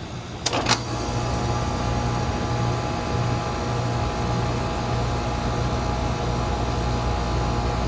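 2000 Rheem Classic Series 10 two-ton air conditioner: two sharp clicks about half a second in, then the unit runs with a steady mains hum.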